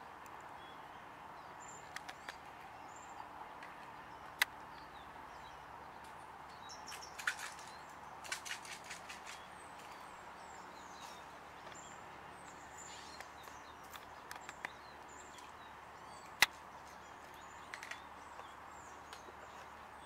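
Faint steady outdoor background noise with scattered brief high chirps of small birds. Two sharp clicks stand out, about four seconds in and about sixteen seconds in, and there is a short run of quick clicks around seven to eight seconds.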